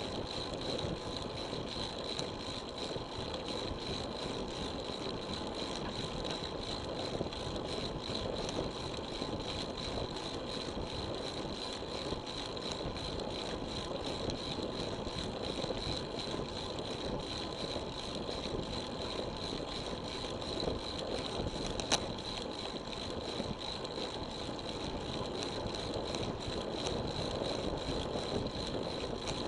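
Steady wind and tyre noise of a road bike in motion, picked up by a small action camera, with a steady high whine throughout and a single sharp click about 22 seconds in.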